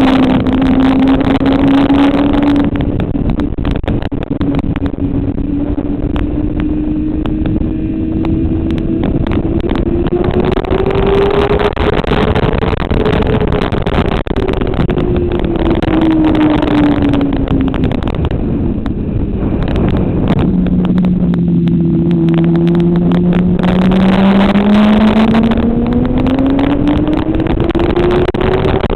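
Motorcycle engine heard from on board at track speed, its pitch rising and falling as the rider accelerates, backs off and accelerates again, with heavy wind rush over the microphone.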